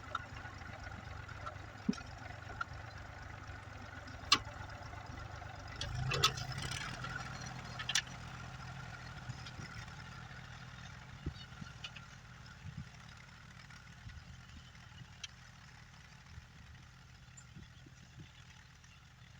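An engine running steadily, slowly fading, with scattered sharp clicks and knocks and a louder clatter about six seconds in.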